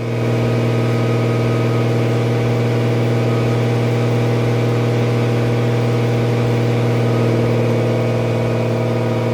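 Turbocharged BMW M52 straight-six engine running at a steady, held speed under light load on a chassis dyno, as part of its break-in. The engine note stays even, with no revving up or down.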